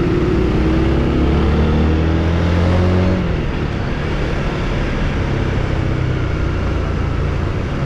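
Honda Winner 150's single-cylinder engine pulling while riding, its pitch climbing slowly for about three seconds before the throttle eases and the engine note drops back under a steady rushing noise. The engine is freshly serviced, with a new spark plug and a cleaned fuel injector, and runs much smoother.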